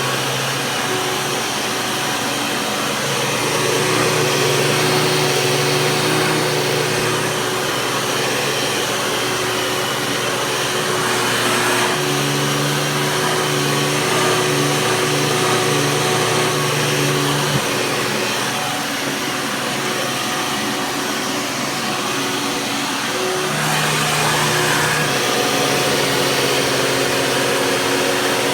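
Hoover vacuum cleaner running on a rug: a steady motor whine over rushing air. Its low tone shifts every few seconds, around 4, 12, 17 and 24 seconds in.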